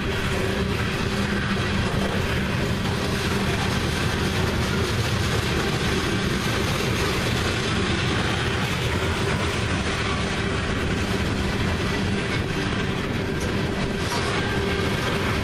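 Loaded coal hopper cars rolling steadily past on the rails, a continuous rumble of steel wheels on track.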